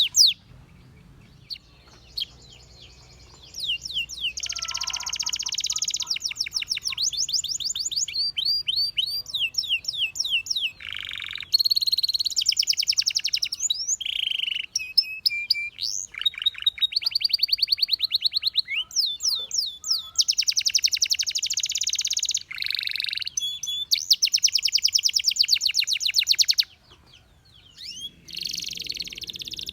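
Domestic canary singing: phrases of fast, evenly repeated high notes (trills and rolls), a few seconds each, with short breaks between them. A pause of about three seconds comes near the start and a shorter one near the end.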